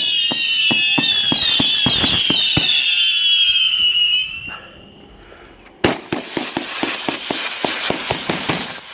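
Consumer firework cakes firing. For about four seconds, many overlapping whistling tails fall in pitch among rapid sharp pops. After a short lull, a loud bang comes near six seconds in and is followed by dense crackling to the end.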